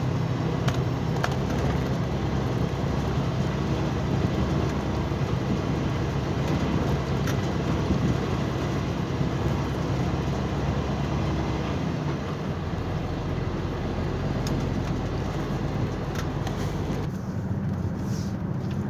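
Heavy truck running steadily, with a low engine hum under road noise.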